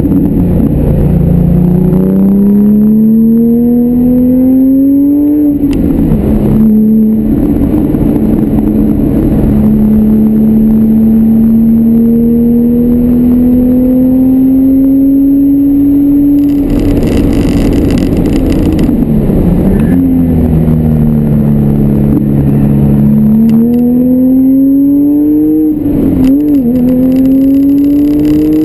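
Car engine heard from inside the cabin at racing speed. It revs up through the gears with sharp pitch drops at upshifts about five seconds in and again near the end. In between comes a long pull, then a rough stretch and a falling pitch as the car slows for a corner past the middle, before it pulls again.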